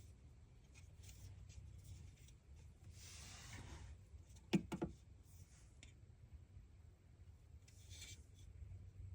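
Faint rubbing and handling of distributor parts, with two or three sharp clicks a little past halfway, over a low steady hum.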